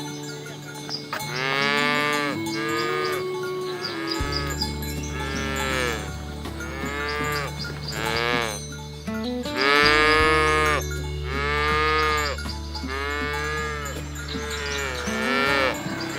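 Cattle mooing over and over, about ten short calls in a row, over steady background music.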